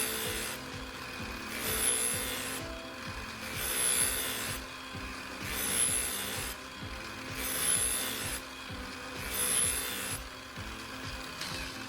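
A steel knife blade being worked against an angle grinder's cardboard polishing disc, giving a rasping rub that swells and fades about once every two seconds, one pass after another. This is the final polishing of the edge.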